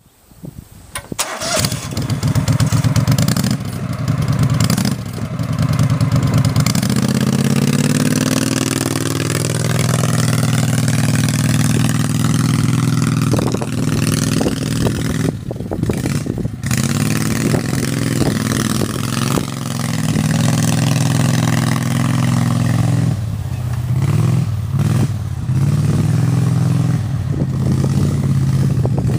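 Engine of a Max IV off-road vehicle with a custom exhaust header starting about a second in, then running with a low exhaust note, settling to idle and changing speed now and then as the throttle is worked.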